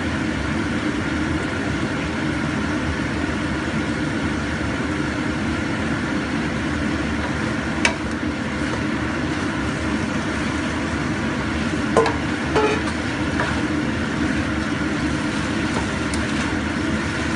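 Chicken and mushroom filling frying in a wok, a steady sizzle under a constant low rush, as more chopped mushrooms are tipped in from a steel bowl and stirred. A sharp knock about eight seconds in and a few clinks around twelve seconds come from the bowl and spatula striking the wok.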